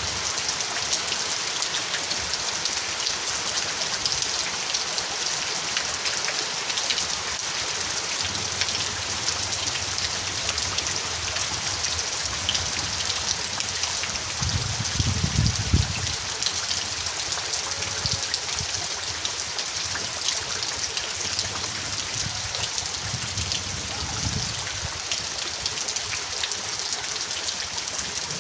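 Steady rain falling, a dense patter of drops on surfaces. A low rumble swells briefly about halfway through, with a weaker one later.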